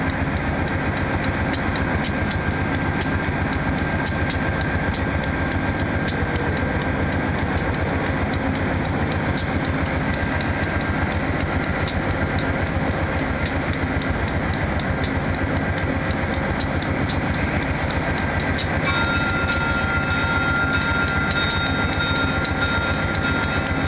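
VIA Rail P42DC diesel locomotive running at the station, a steady throbbing engine sound with a fast, even pulse. About 19 seconds in, a steady high-pitched tone joins it.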